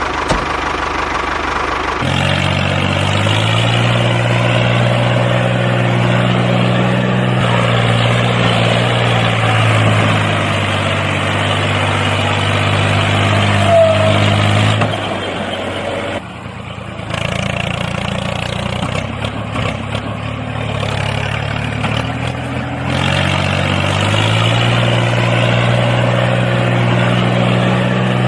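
A tractor-style engine running at a steady idle. Its tone shifts and briefly drops in level around the middle, then settles back to the same steady running.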